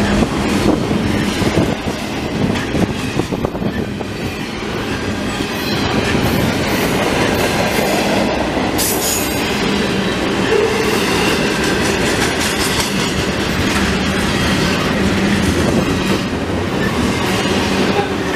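Double-stack intermodal container cars of a freight train rolling past close at speed, the loud, steady noise of steel wheels on the rails.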